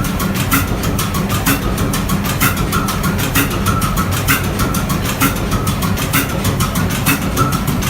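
Deutz 545 diesel engine running steadily, with a rapid, even clatter of firing strokes over a low drone.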